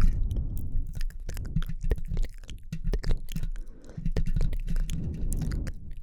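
Close-miked ASMR mouth sounds: a dense, irregular run of short wet clicks and smacks from lips and tongue, over a low rumble.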